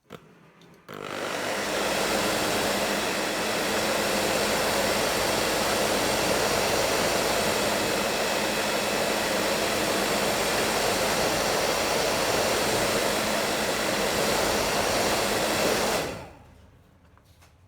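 Hair dryer blowing steadily on a car stereo circuit board, drying off the thinner used to clean away solder residue before power is applied. It starts about a second in and is switched off near the end, its whoosh dying away.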